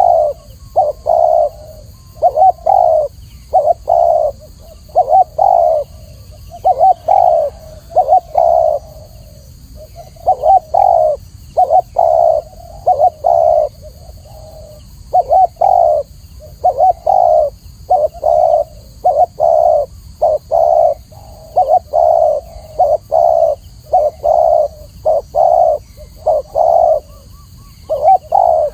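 Spotted dove cooing over and over: short, low coo notes in quick runs of two to four, separated by brief pauses.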